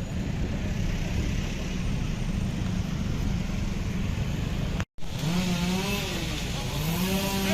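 A steady low rumbling noise, then after a sudden cut, a two-stroke chainsaw running, its engine note rising and falling as the throttle is worked.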